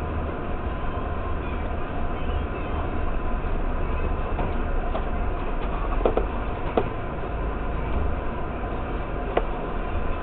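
Car engine idling while stopped, heard from inside the cabin as a steady low rumble, with a few short clicks in the second half.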